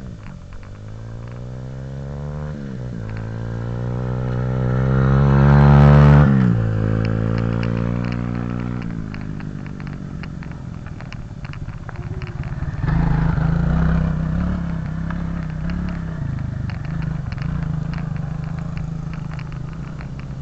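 Off-road vehicle engine rising in pitch and level to its loudest about six seconds in, then dropping away; it revs up again about thirteen seconds in and keeps running unevenly.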